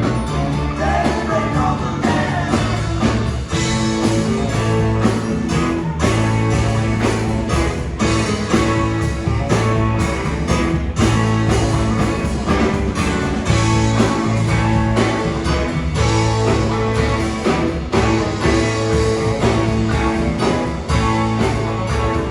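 Live rock band playing, electric guitar over a steady beat.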